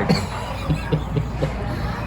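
Indistinct voices and short murmured fragments of speech over a steady low background hum.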